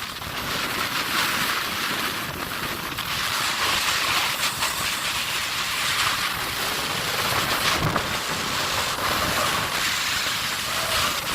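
Snowboard sliding over snow: a steady hiss and scrape of the board running through the snow.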